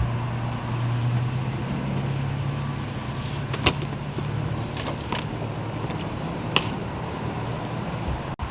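A motor vehicle engine running with a steady low hum that gradually fades, with a few sharp clicks over it.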